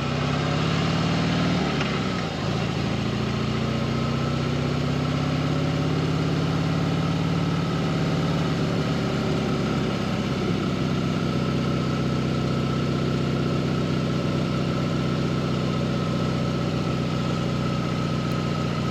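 A vehicle engine running steadily at a constant speed, its low hum drifting slightly up in pitch over the first several seconds and then holding, with a faint steady whine above it.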